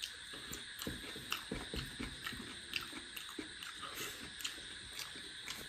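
A man chewing a mouthful of mutton curry and rice, with faint wet mouth smacks and clicks at irregular intervals.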